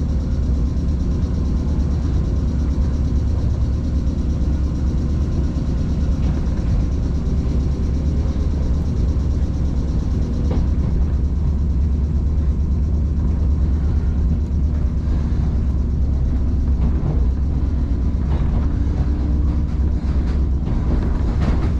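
Electric commuter train running between stations, heard from inside the car: a steady low rumble of wheels on the rails, with a few faint clicks in the second half.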